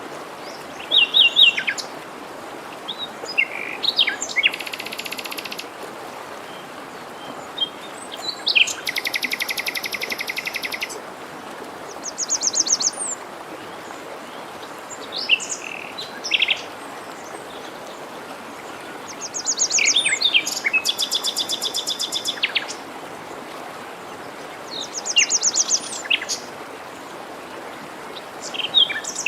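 Several songbirds singing: short chirps and whistled phrases, with three long, rapid buzzy trills of about two seconds each. Under them runs the steady rush of a forest stream.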